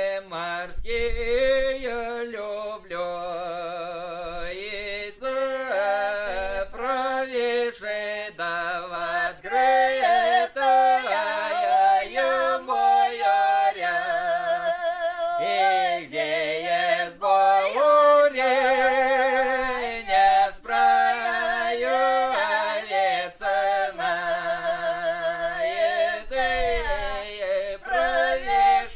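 Voices singing a Russian folk song, with long held notes that waver in pitch.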